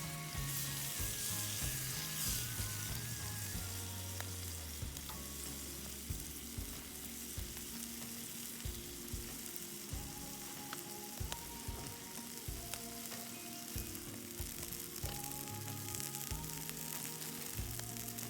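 Food sizzling and frying in a pan over a campfire: a steady hiss with many small crackles and pops.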